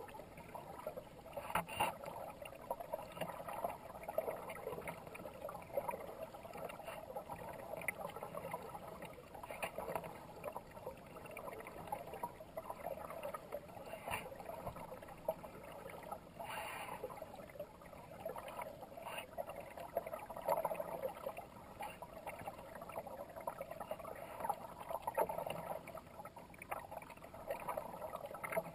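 Kayak paddle strokes splashing and water trickling and gurgling around the hull, a steady wash with irregular sharp splashes throughout.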